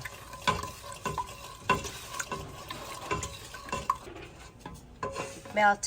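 A utensil stirring brown sugar into coconut milk in a pot, with irregular taps and scrapes against the pot as the sugar is worked in to melt.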